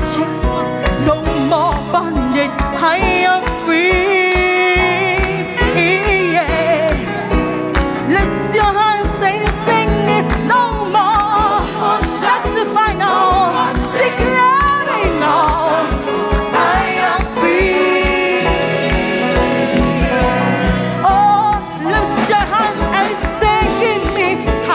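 Live gospel music: a choir and lead singer singing over a band with a steady, driving drum beat.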